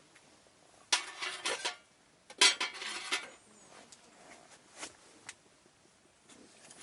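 Metal camp cookware and utensils clattering as they are handled, in two short bursts about a second in and a little later, followed by a few light clinks.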